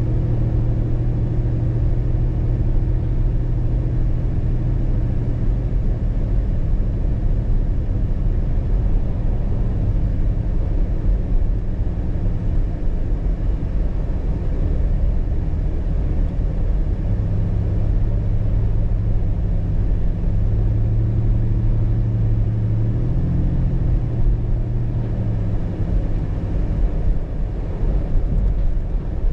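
A car driving, with a steady engine hum over low road rumble. The engine note changes pitch a few times in the second half.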